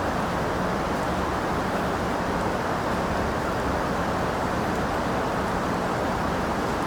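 Steady rain, an even, unbroken rush that is deepest and strongest in the low and middle range.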